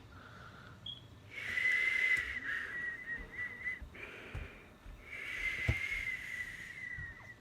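Two long, breathy whistled notes, each held for about two and a half seconds at a nearly steady high pitch with a slight waver, with a few soft handling thumps.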